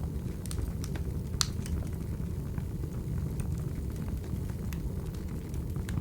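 Wood fire burning: a steady low roar with scattered sharp crackles and pops, the loudest about a second and a half in.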